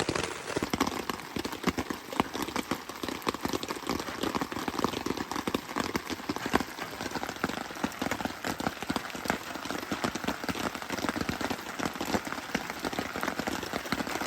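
Heavy rain falling steadily, a dense patter of drops on the tarp overhead.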